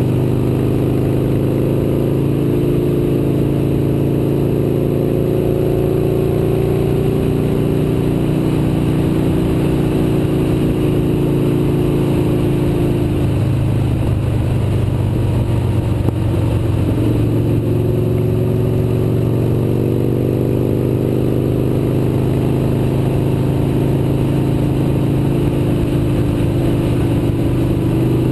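Motorcycle engine running at riding speed, its pitch drifting gently, easing off about halfway through and climbing again after, over a steady rumbling noise.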